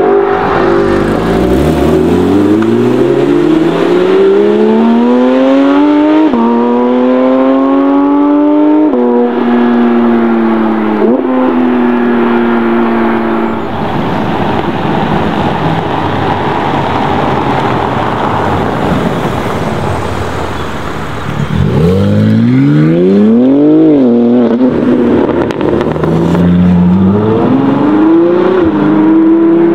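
A BMW X6 M's twin-turbo V8 accelerating hard away, its note climbing and dropping back at upshifts roughly every two to three seconds. Then a stretch of rougher engine and tyre noise from cars on cobbles. Near the end comes a Ferrari 812 GTS's V12 revving up sharply, shifting and pulling away.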